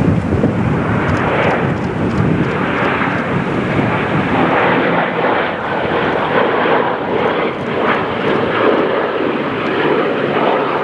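Piston engines of WWII warbirds (B-17, B-25 and P-51 Mustangs) running loud and steady as the planes fly past.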